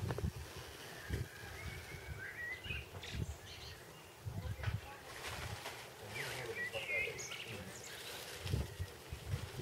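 Small birds chirping in short bursts of high, curving calls, with low muffled thumps now and then.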